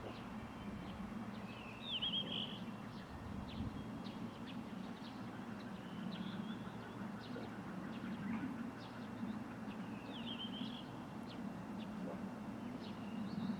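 Songbirds calling: a short warbling phrase comes three times, about four seconds apart, among scattered chirps, over a faint low steady hum.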